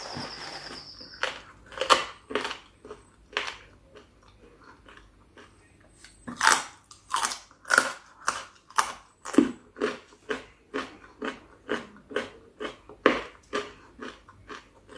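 Close-miked chewing and crunching of spicy chicken feet salad: sharp crunchy bites, sparse at first, then coming about two a second from about six seconds in. A brief hiss with a high squeak right at the start.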